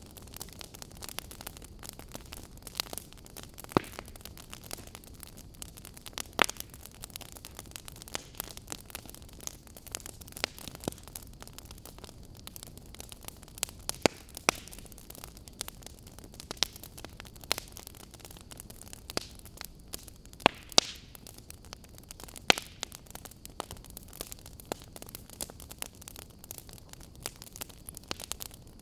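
Wood fire burning, with irregular sharp crackles and pops of firewood over a steady soft hiss.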